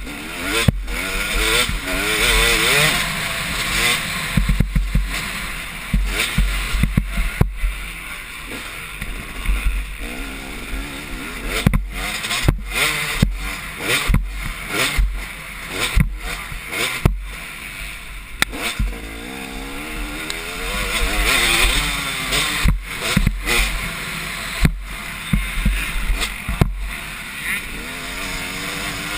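Motocross dirt bikes racing, their engines revving up and falling off again as they work the track, several at once. Sharp clicks recur throughout over a steady low rumble.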